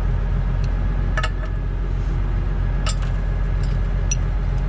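Heavy-equipment engine running steadily, with a few sharp metal clinks of chains being handled, about one, three and four seconds in.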